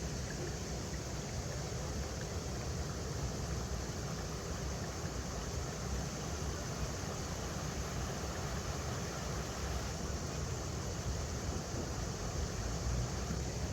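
River water flowing over rocks: a steady, unbroken rush with a low rumble underneath.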